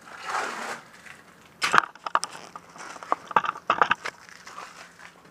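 Hand-handling noises: a soft brushing or rustle, then from about a second and a half in a quick run of sharp clicks and clatters as parts are handled and fitted.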